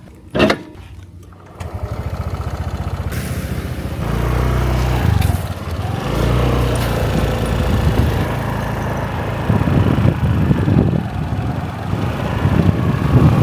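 Small motorbike engine running under way, picking up sharply about a second and a half in and louder again a few seconds later, after a single sharp knock near the start.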